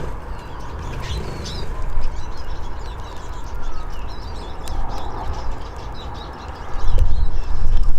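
Eurasian siskins twittering in short, scattered chirps, with a few sharp clicks. Under them runs a heavy low rumble that grows loudest near the end.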